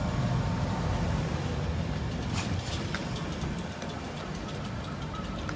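InterCity 225 train's Mark 4 coaches rolling along the platform: a steady low rumble of wheels on rail, with a few light clicks around the middle.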